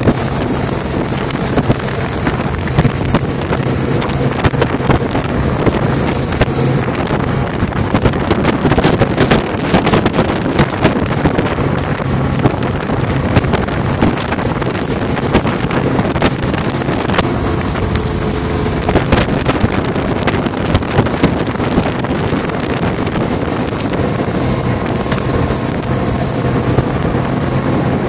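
Tornado RIB's engine running steadily at speed as the boat planes, with heavy wind noise on the microphone.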